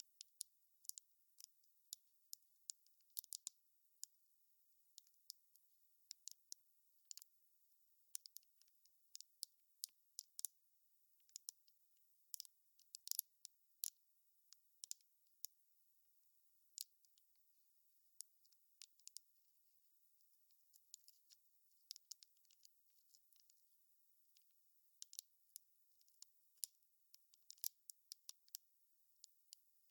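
Wood fire crackling faintly: irregular sharp pops of burning wood, sometimes several close together, with no steady roar underneath.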